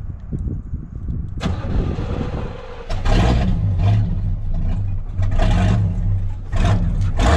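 Big-block 454 V8 in a 1988 Chevy K30 dually, started by hot-wiring around a broken ignition switch, cranks, catches about three seconds in and runs with repeated blips of the throttle.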